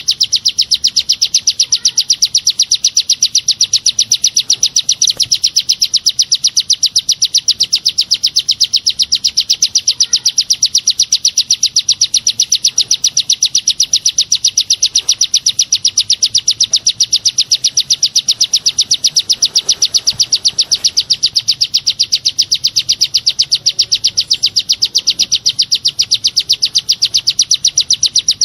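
A songbird's rapid 'tembakan' call: short, high, piercing notes repeated evenly at about four a second without a break. This is the kind of filler song used to train white-rumped shamas.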